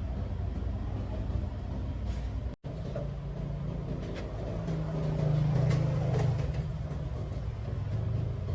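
A small engine running steadily, cut off for an instant about two and a half seconds in and louder for a while around five to six seconds in.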